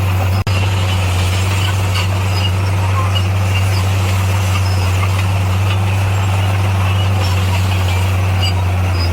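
Motor grader's diesel engine running steadily with a deep, even hum. About half a second in, the sound drops out for a moment.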